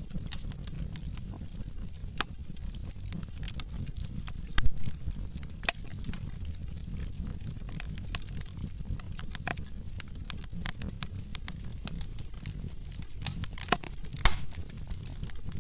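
Wood logs burning in a fireplace: irregular crackles and snaps over a steady low rumble of the flames, with two louder pops, about four and a half seconds in and near the end.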